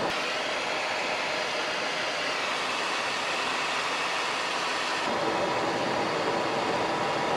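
Steady rush of airflow and turbofan engine noise inside the cockpit of a Cessna Citation XLS on final approach, its tone shifting slightly about five seconds in.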